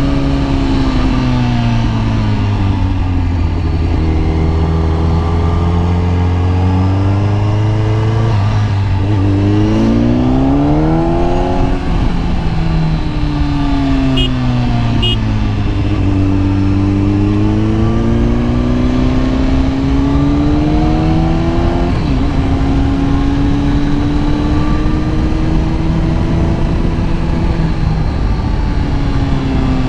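Kawasaki ZX-10R's inline-four engine under way. The revs drop at first, hold low, then climb and fall back twice, with wind noise underneath.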